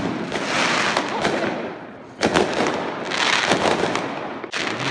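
Fireworks going off in a display: loud bangs about two seconds in and again near the end, with stretches of crackling between them.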